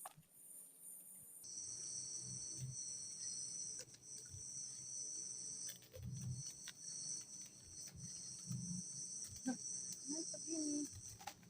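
Steady, high-pitched chirring of forest insects, a new chorus taking over about a second and a half in. Under it are irregular low knocks and thuds.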